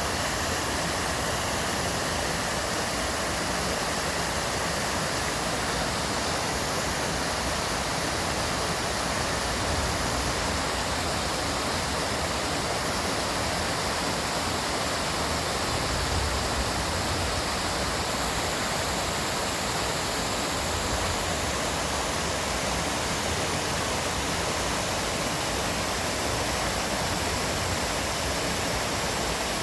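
Steady rushing of flowing stream water, an even noise without a break.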